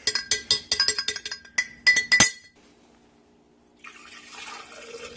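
A spoon clinking repeatedly against a blender jar, about a dozen quick, ringing taps over two seconds while food is knocked off it into the jar. The taps stop, and a faint, steady hiss follows near the end.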